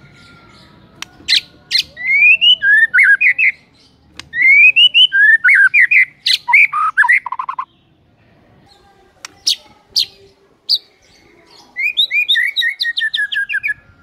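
White-rumped shama (murai batu) singing: a few sharp clicks, then three bursts of rapid rising whistled notes about two, four and twelve seconds in, with pauses between them.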